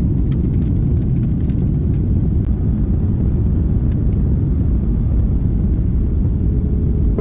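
Steady low rumble of a Boeing 737 Next Generation airliner in flight, heard inside the passenger cabin: engine and airflow noise, with a few faint rattling clicks in the first couple of seconds.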